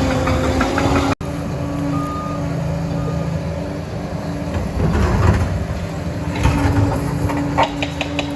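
Liebherr 746 crawler dozer's diesel engine running steadily, with irregular clanks and knocks from the machine at work in the second half. Two faint short beeps come about two and three seconds in. The sound cuts out for an instant about a second in.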